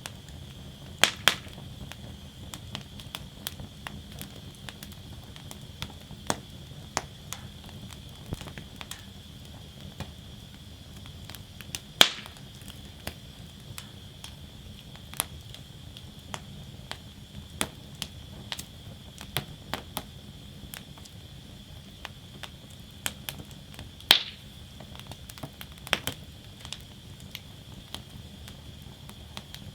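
Wood burning in a fire basket, crackling with frequent small irregular snaps and a few louder pops, about 1, 12 and 24 seconds in, over a steady high hiss.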